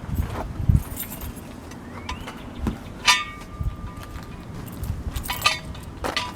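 Metal clinking and clanking: several sharp clinks that ring briefly, the loudest about halfway through and again near the end, over uneven low thumps.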